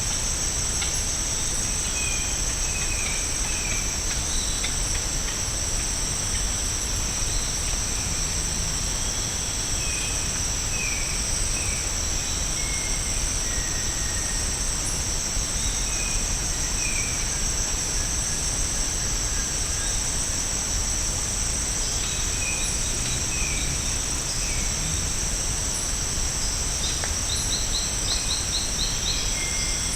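A steady high-pitched insect chorus drones throughout, with scattered short bird calls and whistles over it. Near the end a bird gives a quick run of about six notes.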